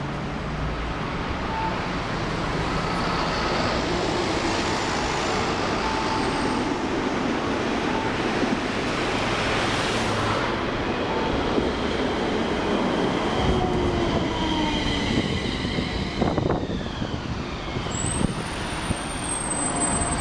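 Toyama Chihō Railway Centram streetcar running on its rails, with a steady rumble of wheels and running gear. Whining tones fall in pitch in the second half, and a high thin wheel squeal comes in near the end.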